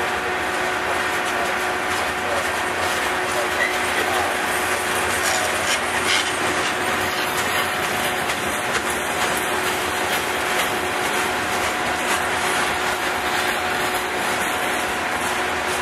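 Freight train of covered hopper cars rolling past close by: a continuous rumble and rattle of wheels and cars, with many small clicks over the rail and a steady tone running underneath.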